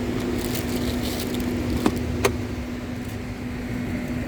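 Steady hum inside a car, with two sharp clicks about two seconds in, close together.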